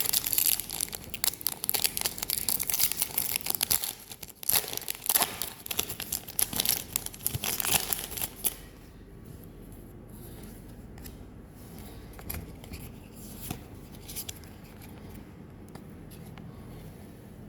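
Packaging of a Pokémon card booster pack being torn open and crinkled, a dense crackly tearing for the first eight seconds or so. It then gives way to faint handling clicks.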